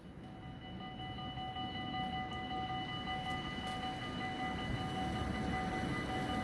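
Dutch level-crossing bells start ringing under a second in, a rapid continuous electronic ringing of several high tones. A low rumble underneath grows louder.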